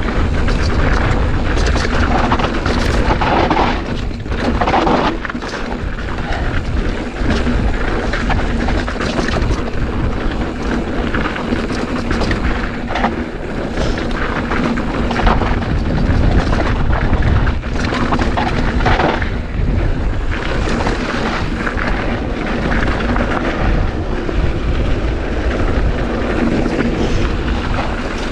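Strong wind buffeting a GoPro's microphone: a constant low rumble. Under it, the frequent knocks and rattles of a mountain bike riding a dirt trail.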